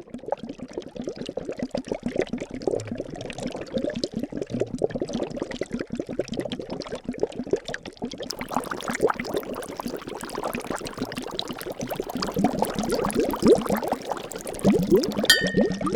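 Liquid bubbling and gurgling in a dense run of short rising blips, with a hissier layer joining about halfway. Near the end there is a brief ringing ping.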